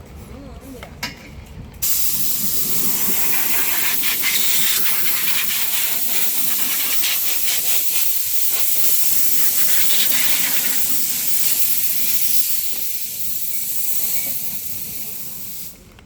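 Loud, steady hiss of a pressurised spray, air or water, switching on suddenly about two seconds in. It eases off briefly near the end and then cuts off abruptly.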